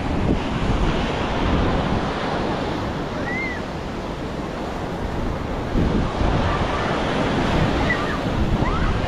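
Atlantic surf washing onto a sandy beach, a steady rush that swells about six seconds in, with wind buffeting the microphone.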